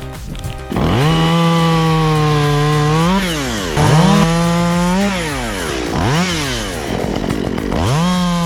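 Chainsaw engine starting about a second in at high revs, then repeatedly falling away steeply in pitch and revving back up several times.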